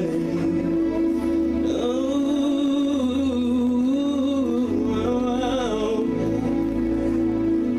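Slow worship music with sustained chords. A single voice sings a drawn-out, wordless melody over it from about two seconds in.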